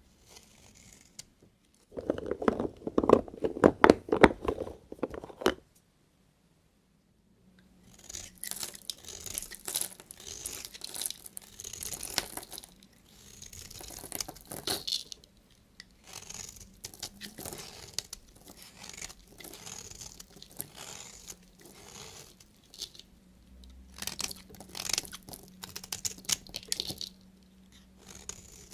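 A knife cutting through bars of soap: a loud, dense crunching run for a few seconds, a brief gap of silence, then a long series of crisp, short cutting and crumbling strokes.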